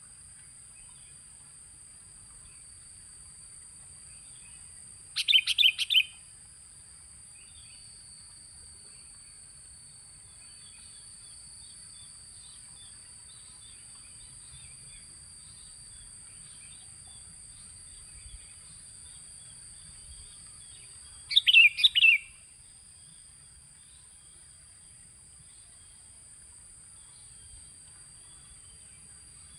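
Sooty-headed bulbul (kutilang) singing in two short bursts of quick, bubbling notes, about five seconds in and again about twenty-one seconds in, as a lure call for attracting wild bulbuls. Behind it runs a steady high-pitched buzzing and faint chirping of other birds.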